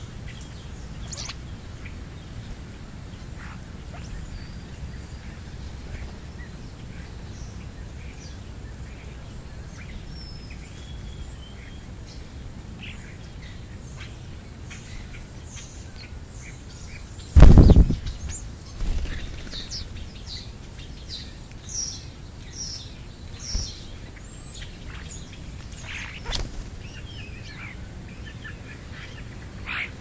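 European starlings and house sparrows chirping in short, scattered calls, more often in the second half, over a steady low rumble. A single loud thump about two-thirds of the way through is the loudest sound.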